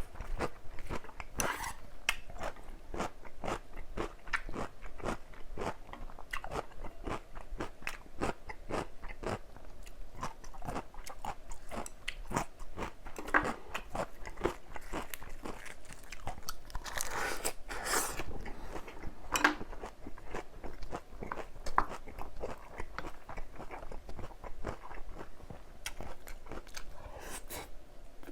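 Close-miked chewing of crunchy vegetables in a full mouthful: a steady run of wet crunches, a few a second, with a louder cluster of bites about two-thirds of the way through.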